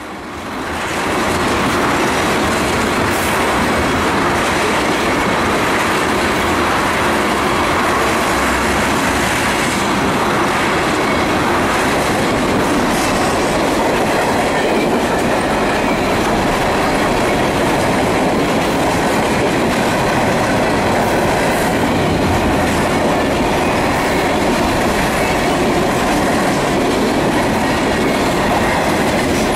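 Freight cars of a passing manifest train rolling by at close range, their steel wheels running on the rail. It is a steady rattle and rumble that grows louder over the first second and then holds.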